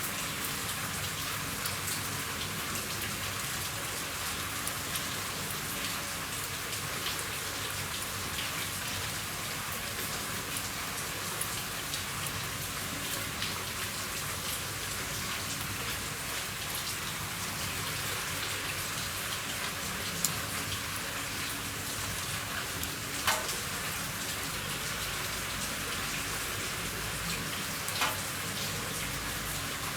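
Steady rain falling on a roof: an even hiss full of small drop ticks, with a few louder single drop hits standing out in the second half.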